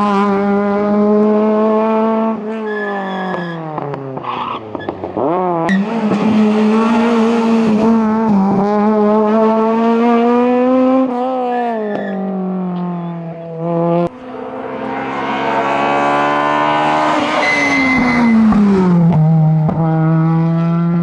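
Honda Civic Type R's four-cylinder engine at full throttle on a hillclimb run, its pitch falling and climbing again several times as the car brakes and changes gear through the bends.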